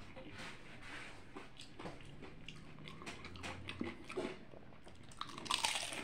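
Mouth chewing a crispy fried potato taco: a run of small crunching crackles from the fried tortilla shell. A louder crunch comes near the end as a fresh bite is taken.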